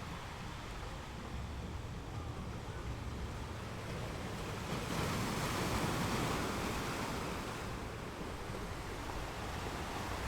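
Ocean surf washing on a beach as a steady rush of noise, with a wave swelling louder about halfway through and then easing off.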